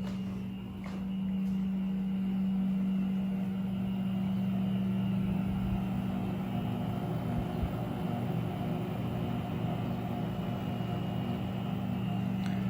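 Rheem Performance Platinum heat pump water heater running: a steady hum from its compressor and fan, getting louder over the first two seconds, with a few faint clicks near the start.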